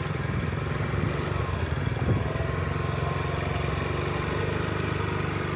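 An engine running steadily at an even speed, a constant low hum that does not rise or fall.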